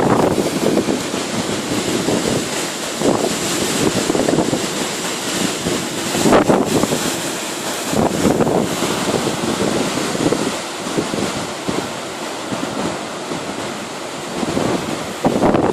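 Storm wind blowing in strong gusts that swell and ease every few seconds, with the loudest gusts about six seconds in and near the end.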